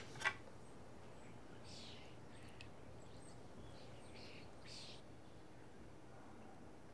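Two sharp clicks in the first half-second, then quiet room tone with a few faint bird chirps scattered through it.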